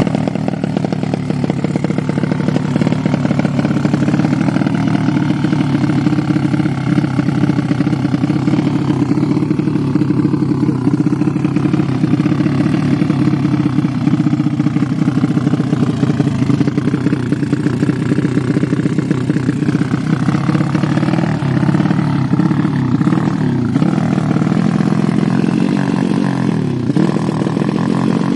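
Yamaha Vega R underbone's single-cylinder four-stroke engine, tuned out to 300cc for drag racing, running loud and steady. In the second half it is revved up and down several times.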